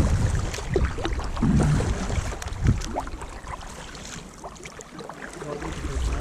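Kayak paddles dipping and splashing in the water as the boat is turned, with wind rumbling on the microphone. It is louder in the first half and quieter after about three seconds.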